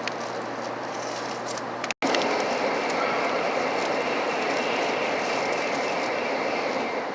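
Shinkansen train running noise: a steady rush that cuts out for an instant about two seconds in and returns louder, with a thin steady whine on top.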